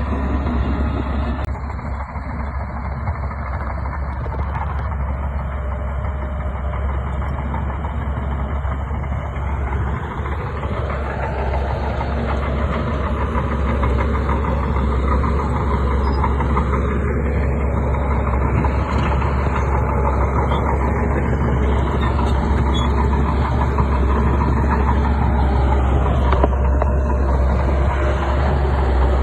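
Bulldozer's diesel engine running under load with a heavy low rumble, its pitch rising and falling several times in the second half as the machine pushes.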